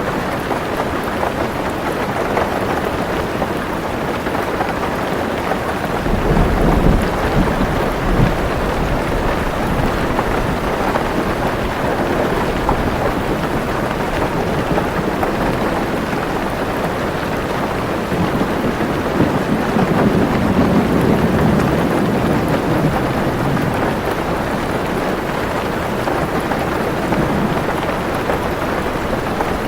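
Heavy rain drumming steadily on a car's roof and windows, heard from inside the car. Thunder rumbles twice: once about a fifth of the way in, with a deep low boom, and again past the middle.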